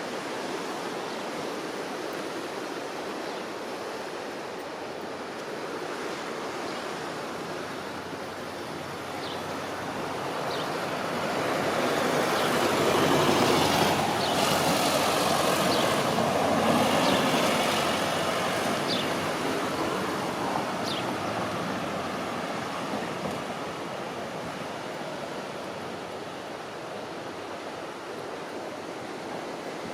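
Steady outdoor traffic noise from passing vehicles mixed with surf, swelling to its loudest about halfway through and then easing off.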